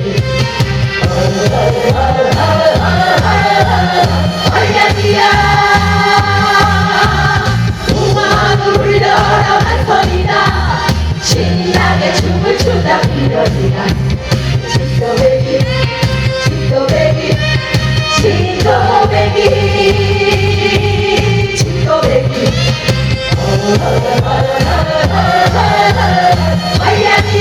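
Live band music with singing voices, over a steady beat and a repeating bass line.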